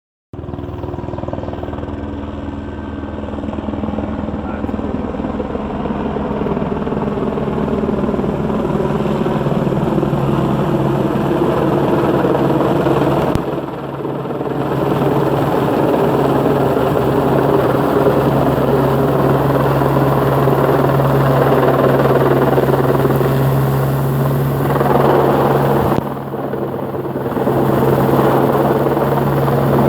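Helicopter flying close, a steady loud engine and rotor sound that grows louder over the first several seconds, dipping briefly twice.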